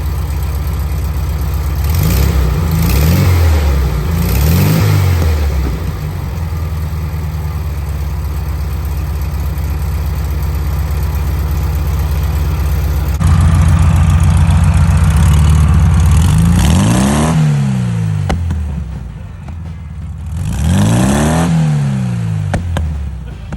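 A 1973 VW Beetle's air-cooled flat-four engine running through a new EMPI two-tip exhaust with a deep tone. It idles and is blipped up and back down to idle twice in quick succession a few seconds in, and twice more in the second half.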